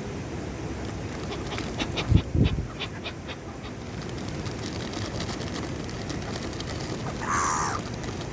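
Birds crowding close: a couple of heavy close thumps among scattered clicks about two seconds in, then a short harsh bird call near the end.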